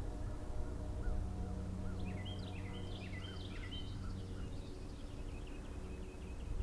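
A songbird singing: a quick jumble of high chirping notes starts about two seconds in and settles into a run of evenly repeated notes, with a few fainter, lower whistled notes before it. A steady low hum runs underneath.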